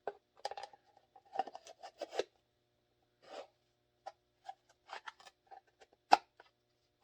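Glock 17 with a mounted flashlight being worked into and out of a newly molded plastic holster to test its fit and retention: irregular scraping and rubbing with scattered clicks, and one sharp click about six seconds in.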